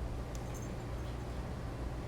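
Steady low room hum, with a single faint tick about a third of a second in.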